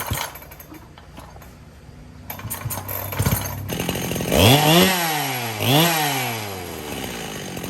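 Restored Husqvarna 365 two-stroke chainsaw catching about four seconds in after some clicks and clatter, then revved up twice, its pitch rising sharply and dropping back toward idle each time.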